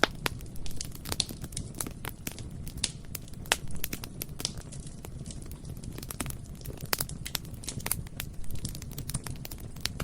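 Bonfire burning, a steady low rumble of flame with frequent irregular sharp snaps and pops of burning wood.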